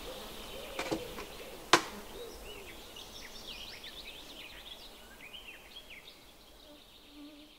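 Birds chirping: a quick run of short, high chirps starting about two and a half seconds in and fading away. Before it come two sharp clicks, the second, just under two seconds in, the loudest sound.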